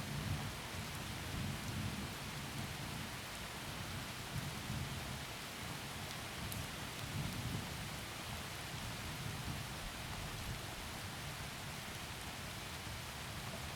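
Heavy rain falling with a steady hiss, under low rolling thunder that swells and fades several times.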